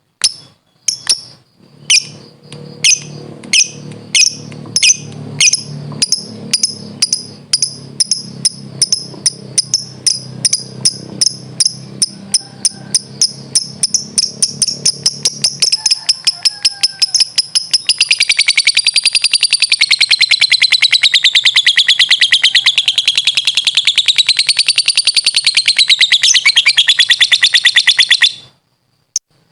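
Lovebird ngekek: a long chatter of sharp, high notes, at first two or three a second, quickening until they merge into a fast continuous trill that wavers up and down in pitch for about ten seconds, then stops abruptly near the end.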